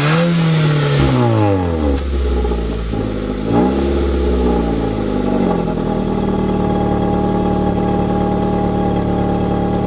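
Stock Nissan Sentra's engine and exhaust being revved. The pitch falls back from one rev, rises and falls again in a shorter blip about three and a half seconds in, then settles to a steady idle.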